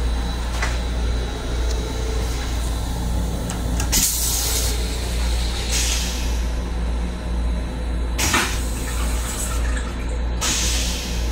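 Steady low rumble of an M7 electric train car heard from inside its small restroom, with four short hisses about four, six, eight and ten seconds in.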